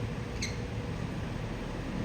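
Ringneck parrot giving one short, high squeak about half a second in, over a steady low background noise.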